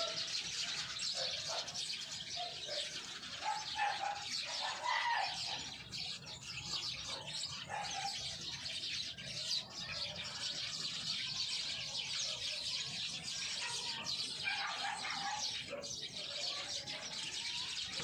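A dense chorus of many small birds chirping and twittering together without a break, with some lower calls scattered through it.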